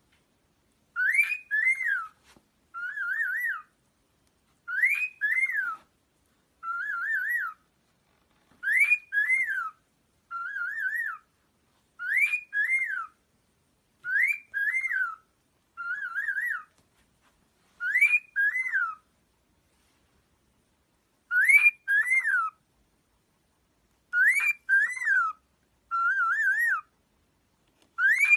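A bird whistling a short phrase over and over, about one phrase every two seconds with silent gaps between. Each phrase is either a pair of rising-and-falling notes or a quick wavering trill, and the two kinds alternate.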